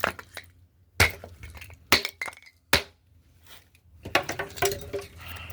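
A birdhouse being smashed: three sharp, hard strikes about a second apart, then a quick flurry of small clattering knocks as the broken pieces rattle.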